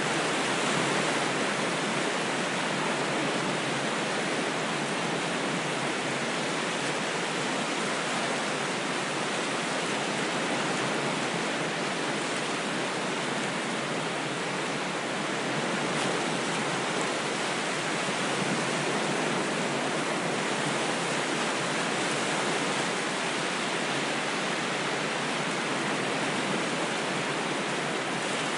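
Continuous rushing water, a steady even wash with only slight swells in loudness and no distinct wave breaks.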